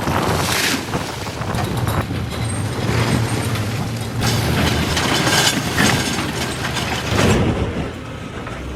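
Excavator's diesel engine running with a steady low hum, overlaid by several loud, irregular surges of noise.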